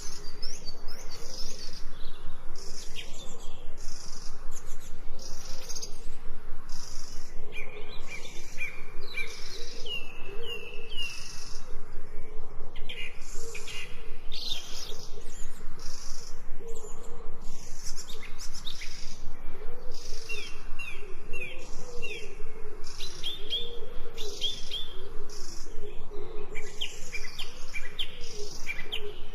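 Birds chirping in short, falling calls over a steady, pulsing insect chorus, with a lower warbling note underneath.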